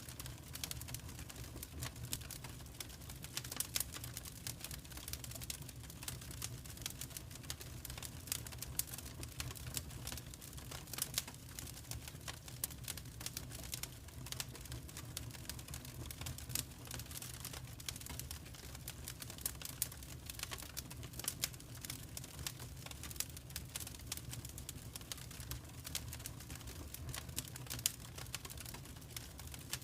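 Wood fire crackling in a fireplace: many small irregular pops and snaps over a low steady rumble of the flames.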